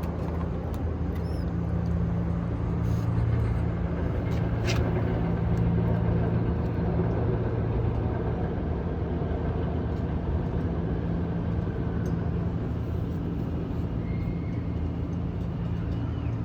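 Steady low mechanical hum over a haze of background noise, with a single sharp click about five seconds in.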